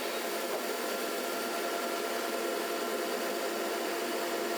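Thickness planer running steadily, a constant whir with a few steady tones.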